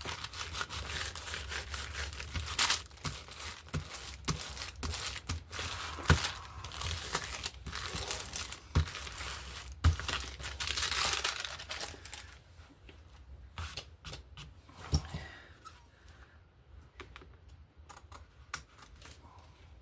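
Paper rustling and crinkling under the hands as a glued paper cutout is pressed and smoothed down onto a board book page, with scattered sharp taps and clicks. The handling turns quieter and sparser about twelve seconds in.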